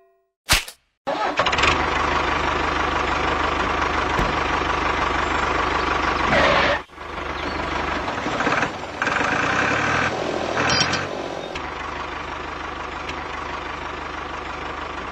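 An engine starts about a second in and runs steadily with a low hum. It cuts out briefly near seven seconds, comes back with a changing tone for a few seconds, then settles into a steady run.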